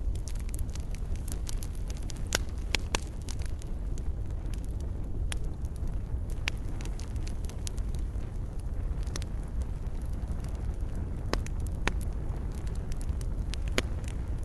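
Wood fire crackling in a fireplace: a steady low rumble of flames with frequent small sharp pops and a few louder snaps.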